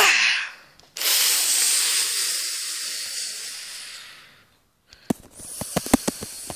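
A loud hiss that starts suddenly about a second in and fades away over about three seconds, followed by a quick run of clicks and taps near the end.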